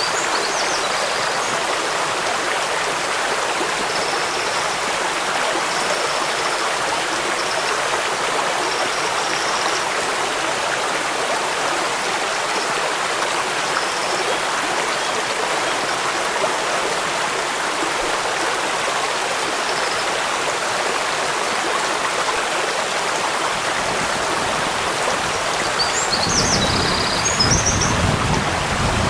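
Steady rushing water of a waterfall and stream under falling rain, an even hiss with no pauses. A few short high chirps come through now and then. A deeper rumble joins in near the end, and the sound grows a little louder.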